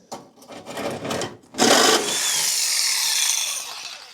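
Makita power tool cutting through a rusty radiator support: a few short bursts, then a loud cut from about a second and a half in that fades away with a falling whine near the end.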